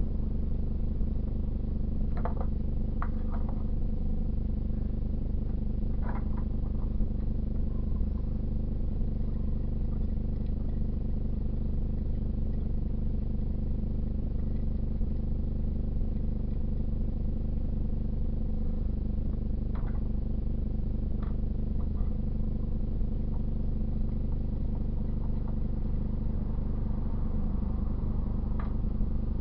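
A steady low mechanical hum runs throughout, with a few light clicks and clinks scattered over it.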